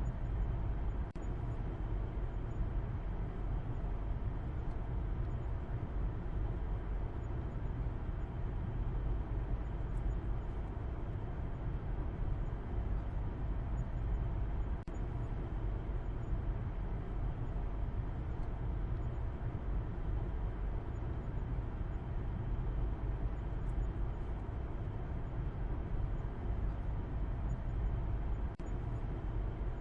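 Steady low rumble of a car driving, a constant wash of road and engine noise heaviest in the deep bass, with three brief dips in level.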